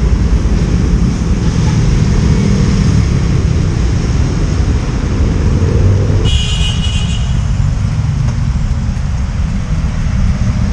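Steady low rumble of road traffic and wind on a motorcycle rider's microphone, with a vehicle horn sounding briefly about six seconds in.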